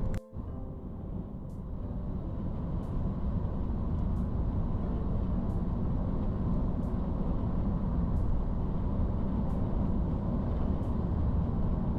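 Road vehicle driving: a steady low engine and road rumble, with faint short ticks at an even pace.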